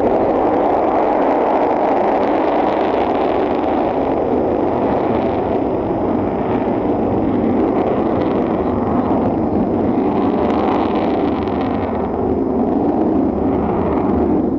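Avro Vulcan's four Rolls-Royce Bristol Olympus jet engines running, a loud, steady jet noise as the bomber flies its display.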